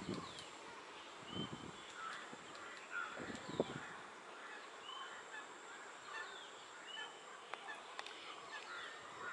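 Wild birds calling: many short, repeated calls throughout, with a few louder, lower calls about a second and a half in and around three seconds in.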